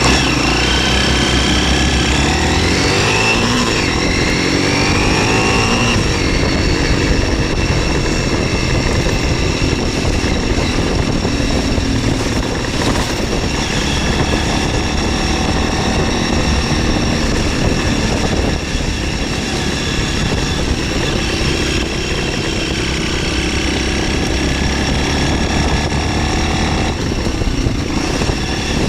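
MZ 125 SX's single-cylinder four-stroke engine revving up several times in quick succession in the first few seconds as the bike accelerates through the gears, then running steadily at cruising speed, with wind noise on the onboard microphone.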